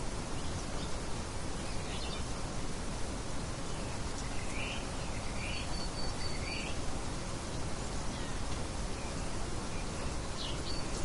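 Steady hiss of a light wind, with birds chirping now and then: a faint chirp about two seconds in, three short rising chirps around the middle, and another chirp near the end.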